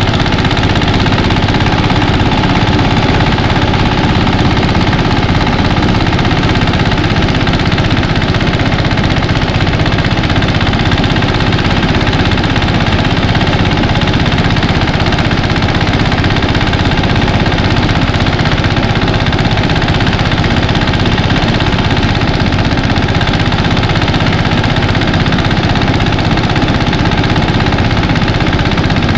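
A mini rice thresher running steadily under its engine, with a loud, even machine noise that does not let up.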